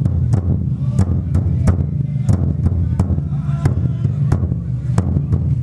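Festival procession din: sharp cracks or beats about three times a second over a steady low drone.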